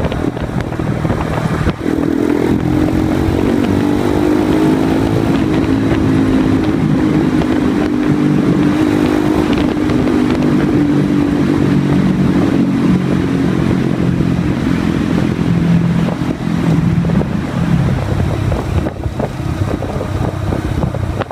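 Honda Grom's 125 cc single-cylinder engine running loud through a baffle-less dual-outlet X-Speed exhaust. The engine note climbs about two seconds in, then slowly falls.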